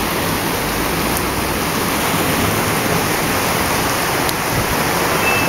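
Heavy rain pouring down in a storm: a loud, steady hiss.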